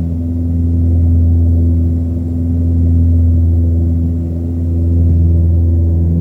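A loud, steady low droning hum with several steady overtones, swelling and fading in a slow pulse about every two seconds.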